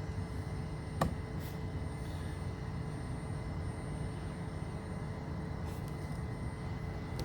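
Steady low hum with faint steady tones above it, and one sharp click about a second in.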